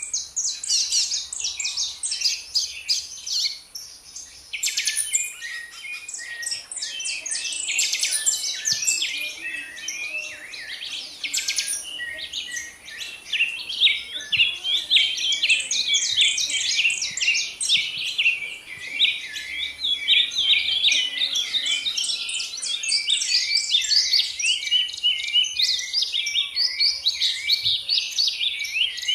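Songbirds singing in a dense chorus: rapid high chirps and trills overlapping without pause, with a faint steady high hiss underneath.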